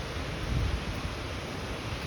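Steady hiss of falling rain, with wind rumbling on the microphone, a little stronger about half a second in.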